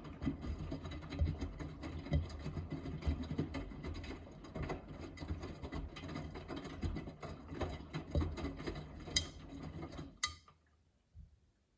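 Miele W3985 washing machine's drum turning during the main wash, with wet laundry tumbling in irregular soft thumps over the motor's low hum. The drum stops about ten seconds in, pausing before it reverses, and it goes nearly silent.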